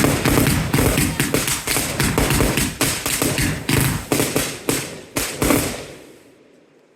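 Fireworks going off in a rapid string of bangs, about three or four a second, stopping about six seconds in and fading out.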